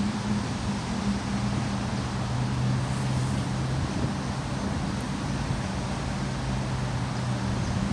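Steady rushing noise of heavy rain and running floodwater, with a low hum wavering underneath.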